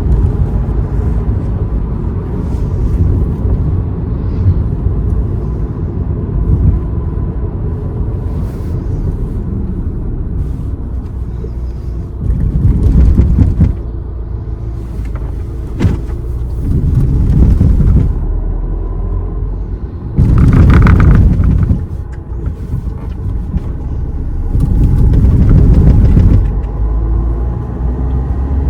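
A car driving along a road, its engine and tyres making a steady low rumble that swells louder a few times, in the middle, about two-thirds through and near the end.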